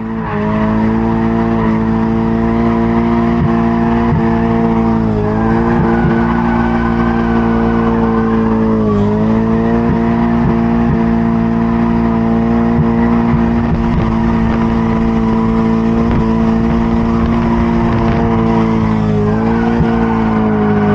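Mazda MX-5 Miata's four-cylinder engine held at high revs in second gear while drifting, with tyres squealing. The pitch holds steady, dipping briefly three times as the throttle comes off and back on.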